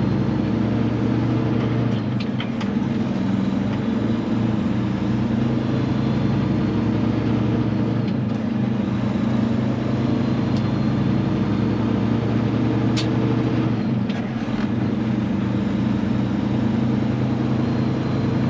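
Diesel engine of a semi truck running steadily at an even speed.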